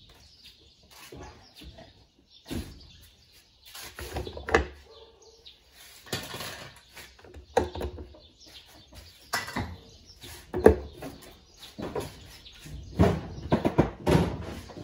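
Irregular knocks, clicks and scrapes of hard parts being handled, with a few short squeaks.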